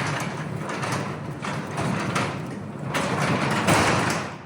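Clopay sectional garage door rolling along its steel tracks as it is moved by hand, a continuous rumble that surges and stops abruptly near the end.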